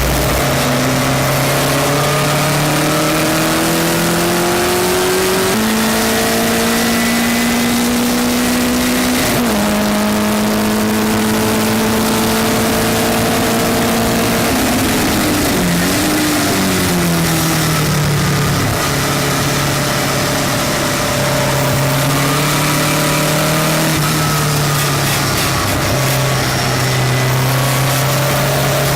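Westfield race car's engine heard from on board, running hard under load, its pitch climbing with the revs and stepping at gear changes, then falling sharply about halfway through as the car slows for a corner before holding and building again.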